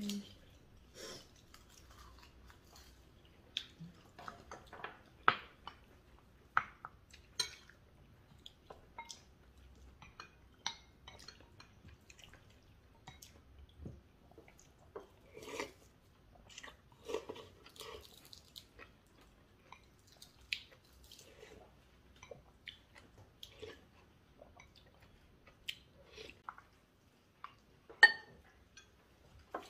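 Close-up eating sounds: chewing of rice and braised cutlassfish, with scattered clicks of chopsticks and spoons against bowls and dishes. The loudest is a sharp knock near the end.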